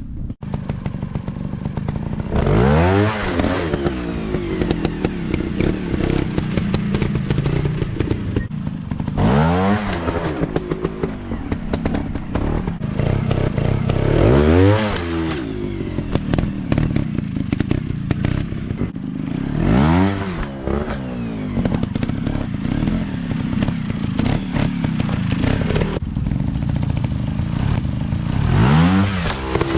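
Dirt bike engines running, with the throttle opened hard about five times, each time the pitch rising sharply and falling back, over steady engine noise.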